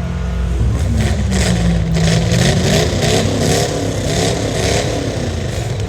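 Car engine revving up and held at high revs, surging in pulses about three times a second before easing off near the end.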